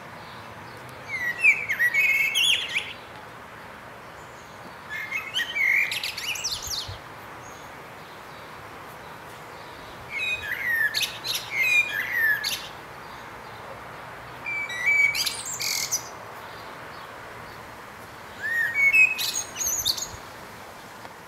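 A songbird singing in short phrases of quick chirps and whistles, five phrases spaced about four seconds apart, over a steady faint hiss.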